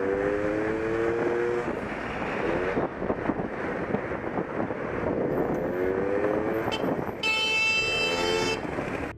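Motorcycle accelerating hard, its engine pitch climbing and dropping back several times as it shifts up through the gears, with wind rushing past. A horn blares for about a second and a half near the end.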